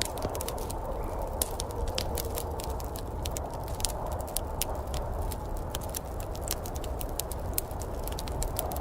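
Wood fire crackling in a fireplace: irregular sharp snaps and pops, several a second, over a steady low rushing noise.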